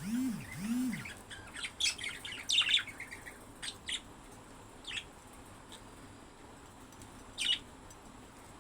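Budgerigars chirping and chattering in short high calls, busiest in the first three seconds, then thinning to scattered single chirps. It opens with two short low sounds that rise and fall in pitch.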